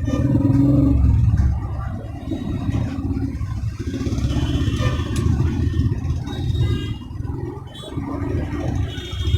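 An engine running steadily with a low rumble, loudest for the first second and a half and then settling a little lower.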